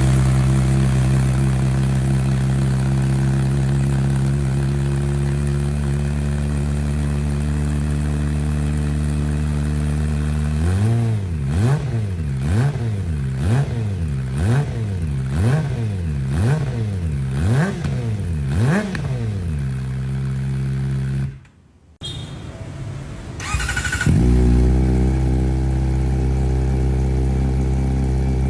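Superbike engine and exhaust idling steadily, then blipped about nine times in quick succession, roughly once a second, before settling back to idle. After a brief drop-out, another motorcycle engine idles.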